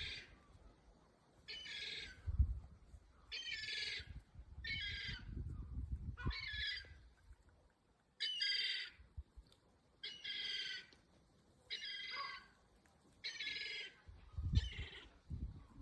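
A bird calling over and over: a high-pitched call of about half a second, repeated evenly every second and a half to two seconds.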